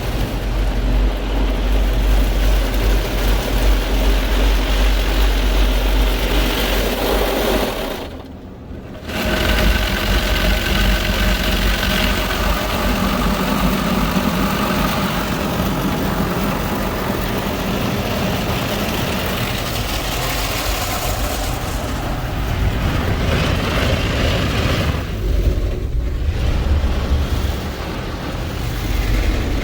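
Hanna Fusion X automatic car wash machinery running: a loud, steady rush of noise over a low hum, dipping briefly about eight seconds in.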